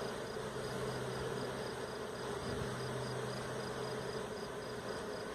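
A swarm of honey bees buzzing in a steady, continuous hum as they fly around and settle into a hive; the bees are in swarm mode, gorged on honey and gentle.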